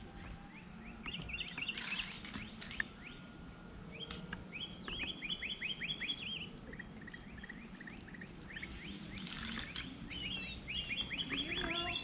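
A songbird singing phrases of quick, repeated down-slurred whistled notes, five or six to a phrase, several phrases in a row over faint outdoor background noise.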